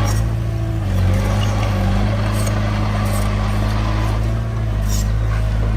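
Heavy equipment's diesel engine running steadily under load, with a few light clanks.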